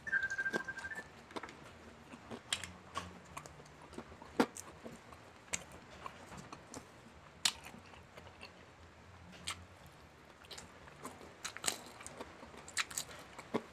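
Close-miked eating of crispy fried chicken: wet chewing and smacking, broken by irregular sharp crunches of the breading. A brief high-pitched steady tone sounds in the first second.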